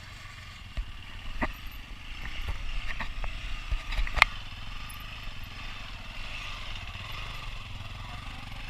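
Motorcycle engine running steadily, with several sharp knocks or clicks in the first half, the loudest about four seconds in.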